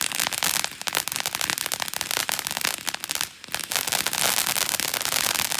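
Ground fountain firework spraying sparks with dense crackling. There is a short lull about three seconds in, then a thicker crackling hiss.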